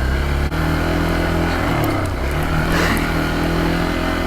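Dirt bike engine running under the rider, its pitch shifting up and down several times with the throttle.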